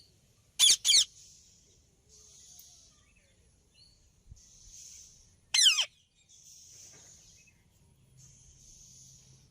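Indian ringneck parrot squawking: two short, sharp, high-pitched calls close together about half a second in, then one more call that falls steeply in pitch near the middle.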